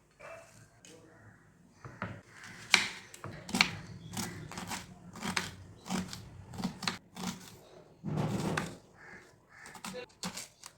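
Kitchen handling sounds: irregular clicks and knocks of utensils and cookware, with a short rustling or scraping burst about eight seconds in.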